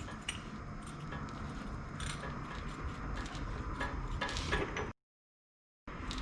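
Faint metal clinks and handling noises of tools and parts being worked, over a low background, with the audio dropping out to dead silence for about a second near the end.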